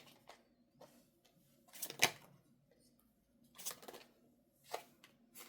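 Tarot cards being shuffled and handled: a few short, sharp snaps and swishes of the deck, about four of them spaced a second or so apart.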